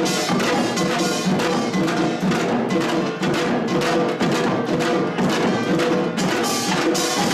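Korean pungmul percussion band playing: a fast, dense rhythm of drums and ringing small gongs.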